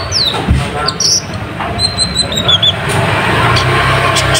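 Kolibri ninja (a sunbird) chirping: thin, high, quick notes, with a short run of falling notes about two seconds in, over a steady low rumble.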